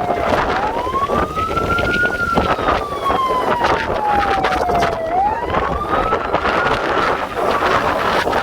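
A wailing siren, gliding up over about a second and a half and falling slowly over about three seconds, repeating roughly every four and a half seconds. Strong wind buffets the microphone throughout.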